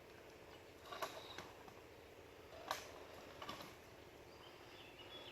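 Quiet outdoor ambience with a few faint clicks or knocks, spaced irregularly, and faint bird chirps near the end.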